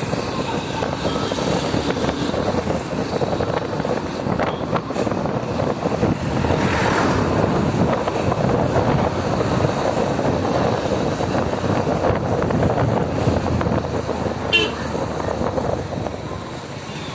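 Motorcycle running on the road with heavy wind and road noise, and one short horn toot about fourteen seconds in.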